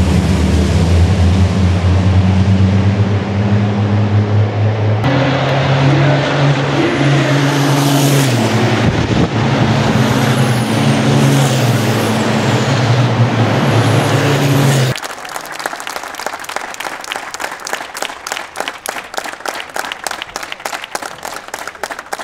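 Racing trucks' diesel engines running hard on the circuit, a loud steady drone whose pitch jumps a few times. About fifteen seconds in it drops away suddenly to a quieter, fast rhythmic patter.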